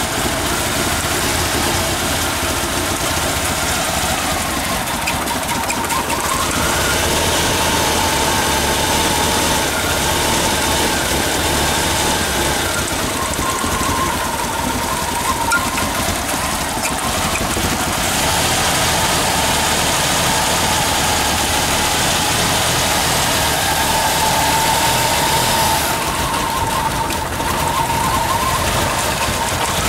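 AMC 258 straight-six engine idling, running badly. A whine sits over the engine noise and drifts slowly up and down in pitch.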